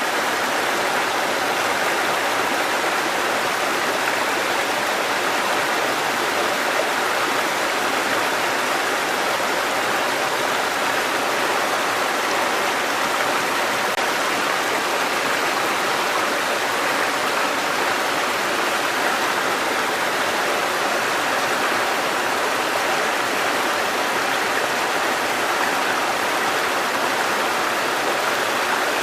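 Mountain stream water cascading over rocks, a steady, even rush of water with no let-up.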